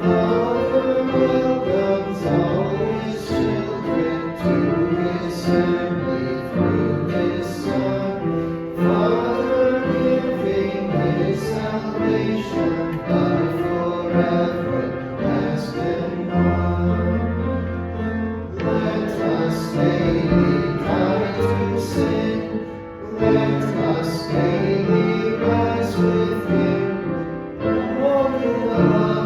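Voices singing a hymn together with instrumental accompaniment, in steady sustained notes.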